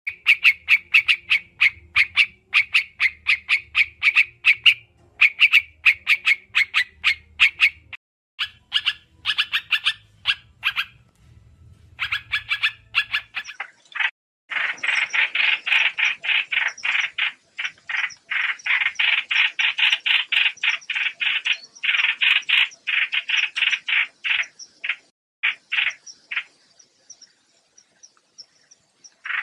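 White-eye (trao trảo) lure call recording: fast chattering runs of short, rapidly repeated notes, coming in bursts with brief pauses, with a longer gap about eleven seconds in and a dense stretch from about fourteen seconds.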